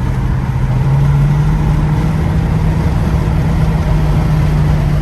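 Car engine droning steadily at highway speed, heard from inside the cabin with road noise; its pitch steps up a little about a second in.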